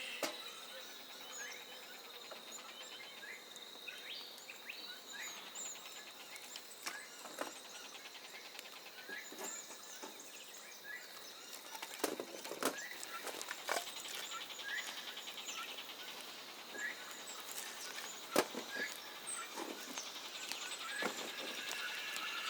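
Bush ambience: small birds chirping on and off over a steady high insect trill, with a few sharp knocks, the loudest about halfway through and another a little past three-quarters.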